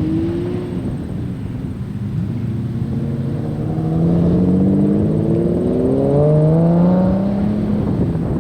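Lamborghini engine accelerating hard: its pitch rises briefly at the start, then climbs steadily and grows louder from about three seconds in, and falls away just before the end.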